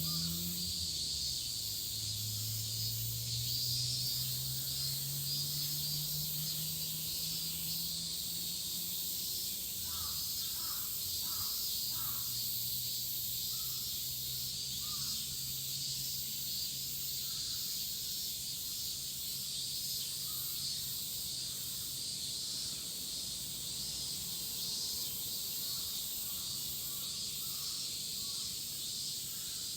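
A dense chorus of cicadas keeps up a steady high-pitched buzz throughout. Around the middle, crows caw several times in quick succession, and a low drone that slowly rises in pitch runs underneath.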